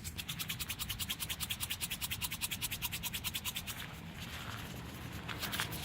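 A container of Sonic Boom binary exploding-target mix being shaken hard by hand, a fast, even swishing of about ten strokes a second that mixes the two components before use. The shaking fades out about four seconds in, leaving faint hiss and a few light ticks.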